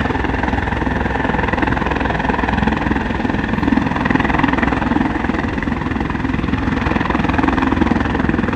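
CH-146 Griffon helicopter running steadily, its rotor beating fast and even over the whine of its twin turboshaft engines.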